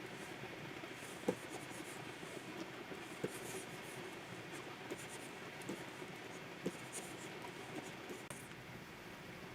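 Plastic stylus nib scratching and stroking across a Wacom 24 Pro pen tablet's surface, with a few light taps of the pen scattered through.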